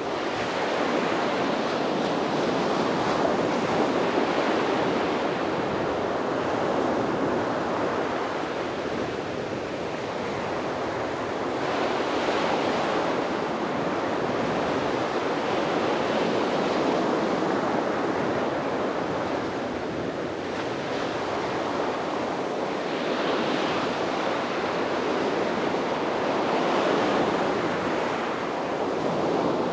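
Sea surf breaking and washing up on a beach, continuous, with surges every several seconds as waves come in.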